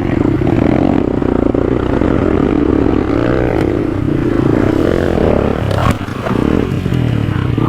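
Motorcycle engine running steadily as the bike is ridden along a road, with a few knocks about six seconds in and at the very end.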